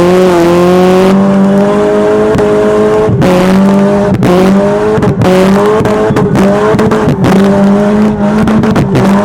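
Pontiac Sunfire's 2.2-litre four-cylinder engine held at high revs in a burnout on bald tyres, a steady high engine note that wavers slightly with a few brief dips.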